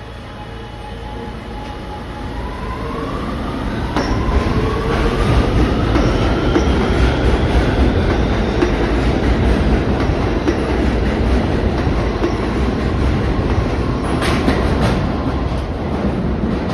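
R211T subway train picking up speed: its propulsion whine climbs steadily in pitch over a loud rumble of wheels on rail, growing louder over the first few seconds and then holding steady. A few sharp clacks from the wheels come about four seconds in and again near the end.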